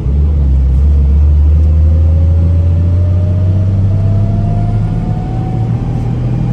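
Diesel engine of a 2004 GMC truck running with a steady low rumble, with a whine that rises slowly in pitch throughout.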